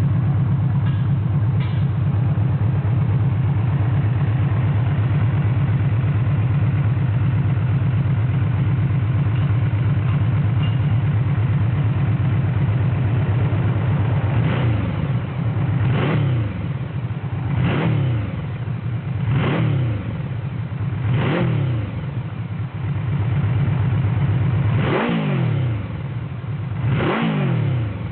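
Yamaha VMAX 1700's V4 engine breathing through a titanium slip-on exhaust, idling steadily for the first half. It is then blipped with quick throttle revs, about six in all, each rising sharply and dropping back to idle.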